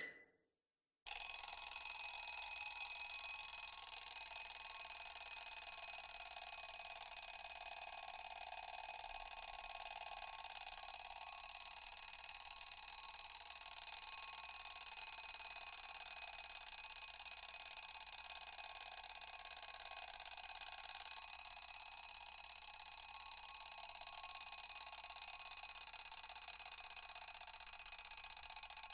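A sharp click, then from about a second in an alarm rings without a break, a dense steady ringing made of many high tones, easing slightly toward the end.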